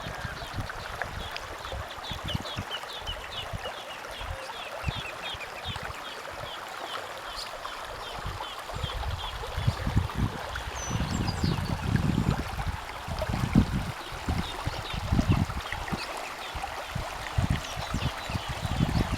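Steady rush of running water from heavy rain, with a quick series of small high chirping calls in the first half and irregular low thuds.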